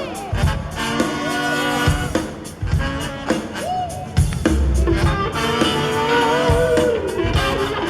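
Live soul-funk band with horns, electric guitar, bass and drums playing, with a singing voice sliding through melodic phrases.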